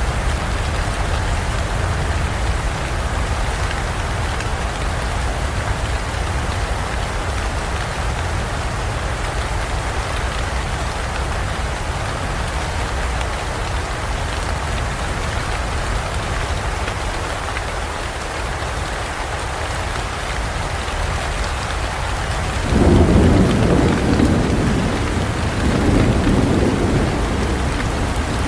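Steady heavy rain falling, with a roll of thunder rumbling in near the end, swelling twice.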